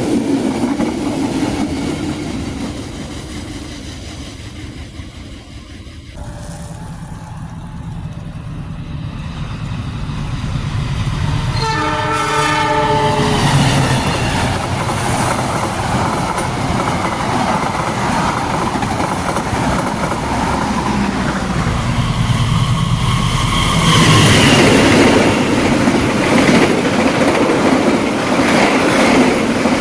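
A long-distance passenger train fades away, then a second one approaches. It sounds its horn once, a blast of about a second and a half, and passes close by with its wheels clattering over the rail joints, loudest near the end.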